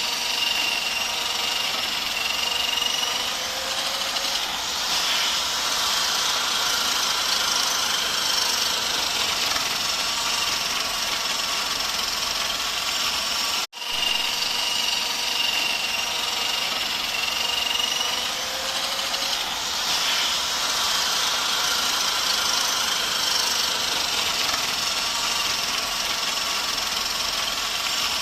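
A motor running steadily with a faint whine. The sound cuts out for a moment about fourteen seconds in, then the same stretch plays again.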